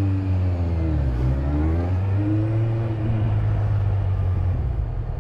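Motorcycle engine running under way, with a steady low rumble; its pitch drops about a second in as the revs come down, then climbs again as it accelerates.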